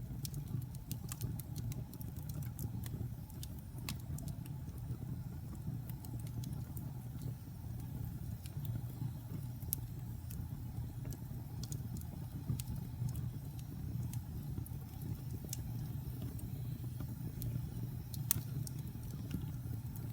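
Wood fire burning in a fireplace: a steady low rumble of the flames with irregular crackles and a few sharper pops of the burning wood.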